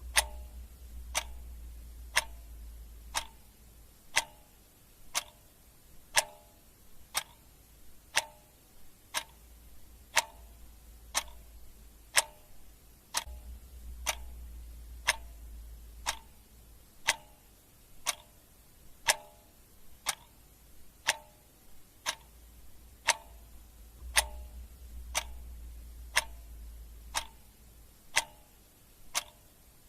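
Clock ticking steadily at about two ticks a second, alternating a louder tick with a softer tock.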